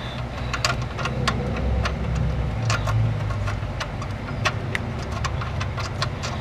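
Scattered light metallic clicks and taps as a 4-wire air/fuel ratio sensor is unscrewed by hand from the exhaust, over a steady low rumble.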